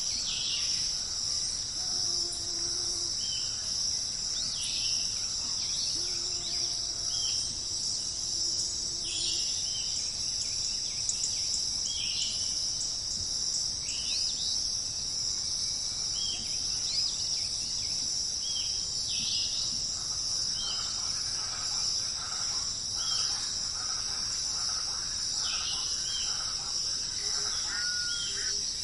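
Steady high-pitched drone of insects such as crickets or cicadas, with short bird calls every second or two. A few low held notes come in the first few seconds, and a busier bird chatter joins in the last third.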